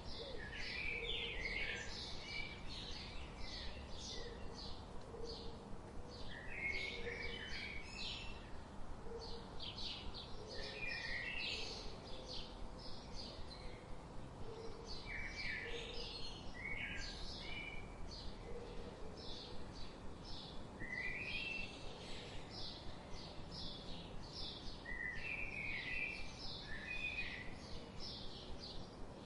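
Several songbirds chirping, many short high calls following one another in quick clusters without pause, over a faint steady outdoor background hiss.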